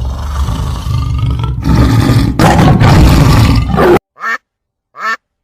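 A loud, rough, deep animal-like sound that cuts off suddenly about four seconds in, followed by a duck quacking twice, the quacks evenly spaced less than a second apart.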